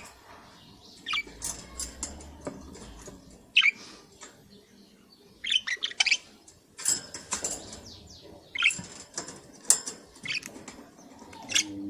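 Pet budgerigars giving short, sharp chirps mixed with quick clicks, scattered irregularly about once a second.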